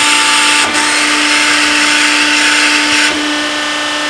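Bertsch 175-ton hydraulic press brake cycling: a steady hum from its hydraulic pump under a loud hiss of hydraulic flow as the ram moves. The hiss drops off about three seconds in.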